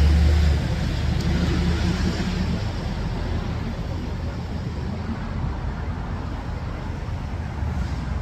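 Road traffic noise: a low vehicle rumble that eases off about half a second in, leaving a steady hiss of passing traffic.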